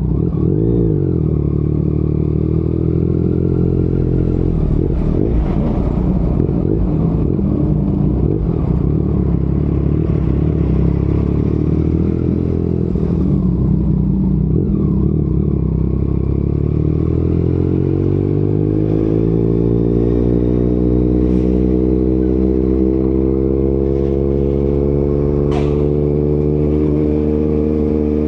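Yamaha MT-09's inline three-cylinder engine running through an Akrapovic exhaust while riding, holding a fairly steady pitch, then climbing smoothly in pitch over the last third as the bike accelerates.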